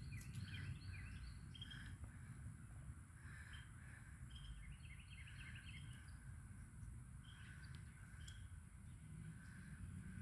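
Faint outdoor ambience: distant birds giving scattered short chirps, with a quick run of repeated notes about five seconds in, over a low steady background rumble.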